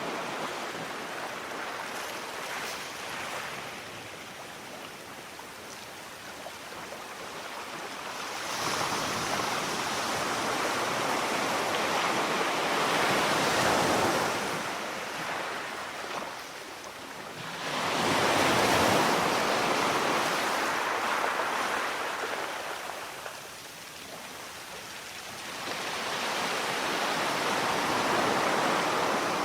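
Sea surf: waves breaking and washing in, a steady hiss that swells and falls back in three big surges, the loudest a little past halfway.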